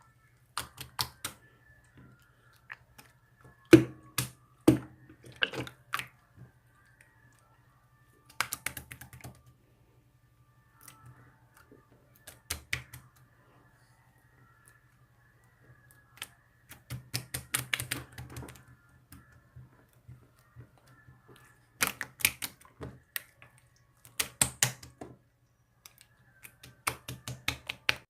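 Sharp clicks in rapid bursts of one to two seconds, separated by pauses of a few seconds, over a faint low steady hum. The loudest clicks come about four seconds in.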